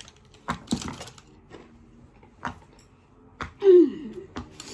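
A fidget toy being played with: a few separate sharp clicks, then about three and a half seconds in a short, loud sound falling in pitch.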